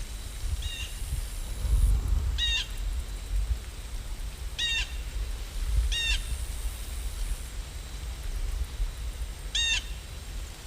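A bird calling five times, short calls a couple of seconds apart, the first one faint, over a steady low rumble.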